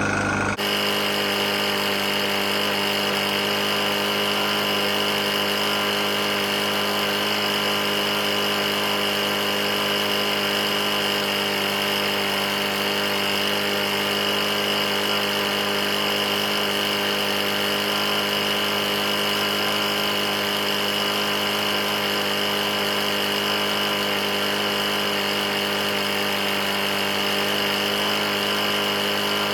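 Single-cylinder Briggs & Stratton E450 lawn mower engine running steadily at constant speed, an engine with a bad knock that is being run until it fails. The sound changes abruptly about half a second in, then stays even.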